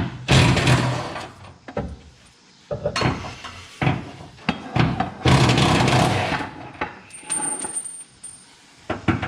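Hand-tool and metal-parts noise from work under a car to remove its transmission: two runs of loud rattling, about a second each, near the start and just past the middle, amid scattered clanks and knocks.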